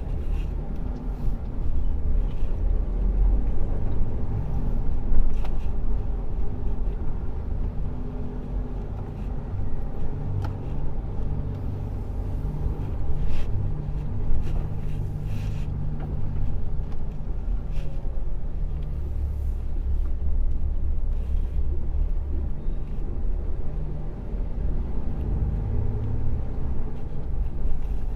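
Lorry engine running and road noise heard from inside the cab while driving: a steady low rumble with an engine hum, with a few faint clicks.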